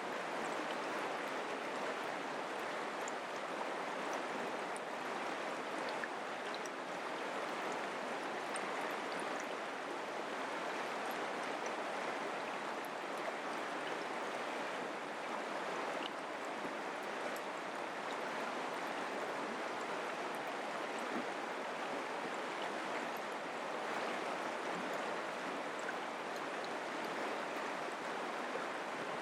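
Mountain creek running steadily over rocks, an even rush of water with small splashes and trickles.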